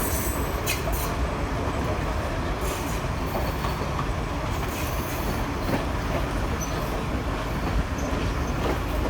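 Train running along the track: a steady rumble with scattered short clicks from the wheels and rails.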